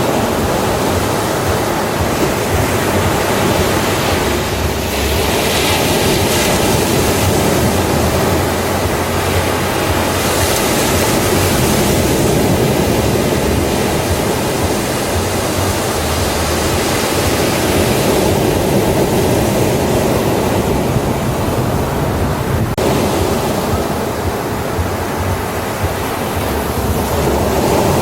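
Ocean surf on a beach: a continuous rush of breaking and washing waves that swells and eases every several seconds.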